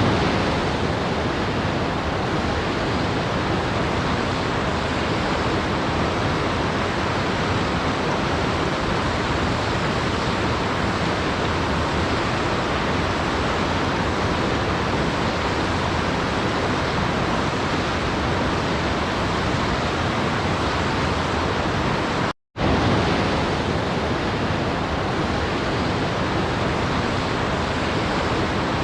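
Steady, even rushing of a waterfall, falling water heard as a constant hiss. It cuts out to silence for a split second about 22 seconds in, then resumes unchanged.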